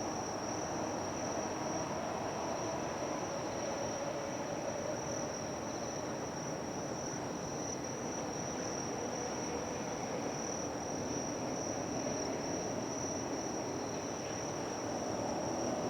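Insects chirring in one unbroken high-pitched drone, over a steady low rumble.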